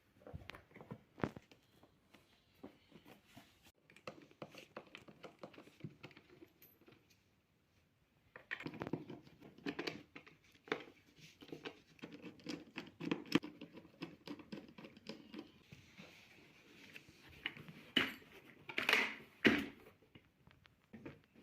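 Household handling noises: rustling and crinkling with many light clicks and knocks. They stop briefly about eight seconds in, then come back busier, with a few louder knocks near the end.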